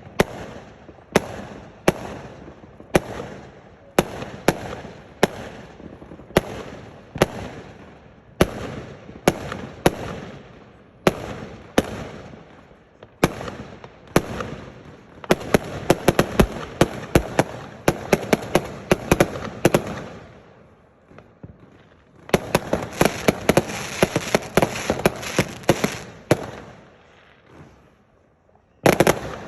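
Firework display: a run of sharp bangs about once a second, then dense volleys of rapid bangs and crackling that die down, start again, and pause briefly before another loud burst near the end.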